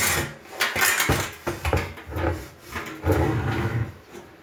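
Knocks, clicks and rattles of grill parts being handled while a charcoal grill is put together.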